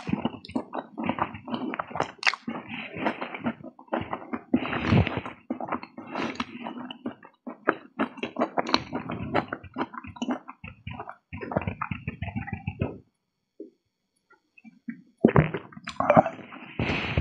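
A person eating by hand, chewing and smacking their lips in a run of quick, irregular mouth sounds. The sounds stop for about two seconds about three-quarters of the way through, then start again.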